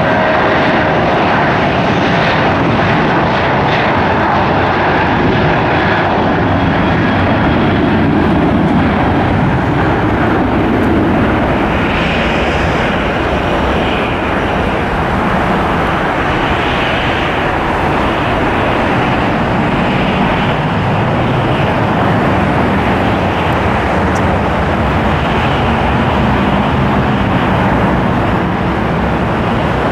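Airliner engines running loud and steady, as a plane passes close to the airfield's edge.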